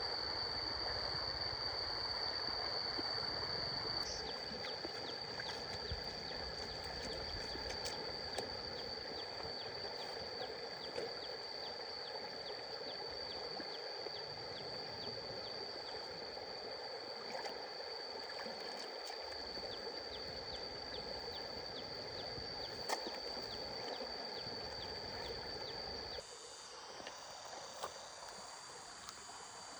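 Water running in a stream, with a steady high-pitched insect drone over it and quick regular ticking through most of it. The sound drops abruptly, quieter, near the end.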